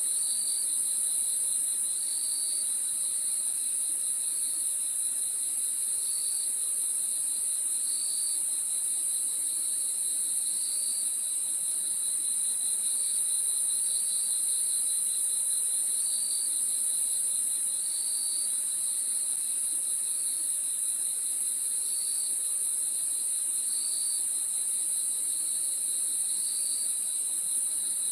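Crickets chirping: a steady, high, unbroken trill under a lower chirp that repeats about every two seconds.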